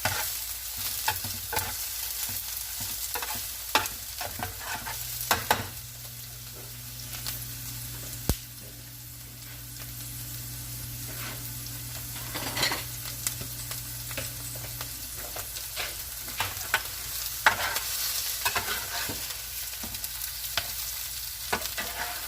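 Food sizzling in a hot frying pan while a utensil scrapes and taps against the pan, lifting the cooked pieces out. A low steady hum sounds for several seconds in the middle.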